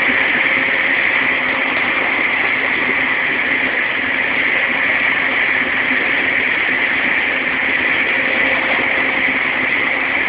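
Steady running noise of an electric commuter train heard from inside the carriage at cruising speed, with a faint steady hum under it.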